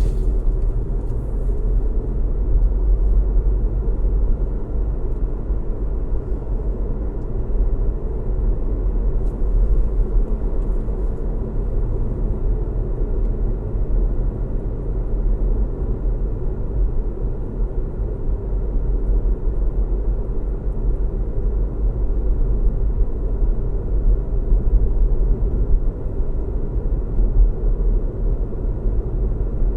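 Car driving at a steady speed: a constant low rumble of road and engine noise with no changes.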